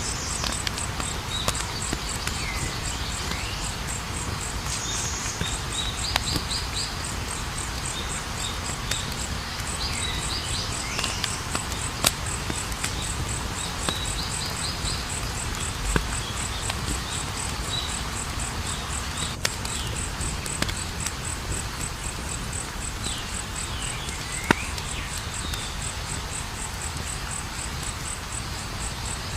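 Wood fire burning with a steady hiss and crackle and a few sharp pops, under a constant high, fast insect trill and a few short sweeping chirps.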